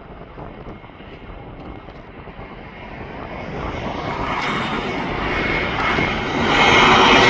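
Jet airliner's engines growing steadily louder as the plane approaches, a high steady whine joining in about halfway through, loudest near the end.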